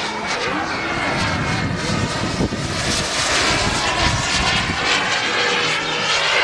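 Turbine engine of a radio-controlled model jet in flight: a steady jet rush with a faint high whine, loudest around the middle as the plane passes.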